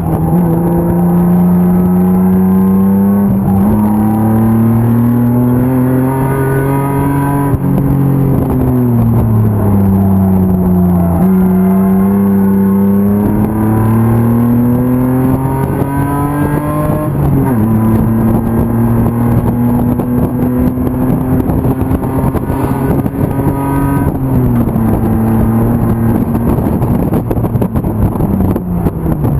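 BMW M50 straight-six engine in an E36 BMW 325 race car under racing load, its revs climbing and falling over and over with gear changes and corners. There is a sudden drop in revs about seventeen seconds in, then the engine holds fairly steady before the revs fall away near the end.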